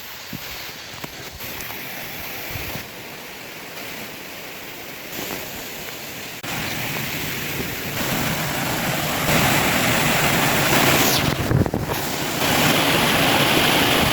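Mountain stream waterfalls in a mossy gorge, water rushing over rocks in a steady rush. It grows louder in a few sudden steps and is loudest over the second half.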